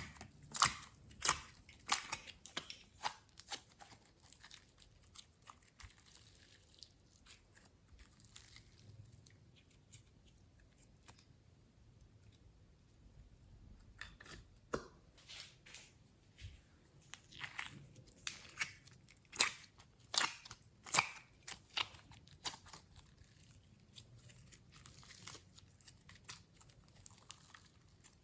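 Slime being squeezed and worked by hand, giving sharp, sticky clicks and pops. They come in clusters, thinning out for several seconds in the middle.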